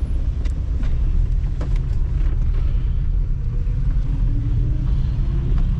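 Subaru BRAT with its freshly swapped engine driving slowly, heard from inside the cab: a steady low engine and road rumble, with a few sharp knocks.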